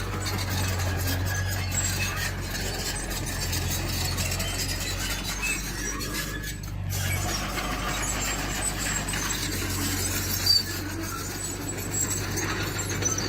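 Tracked earthmoving machine at work: a steady low engine drone under metallic squealing and clinking from steel tracks, with a sharp knock about ten seconds in.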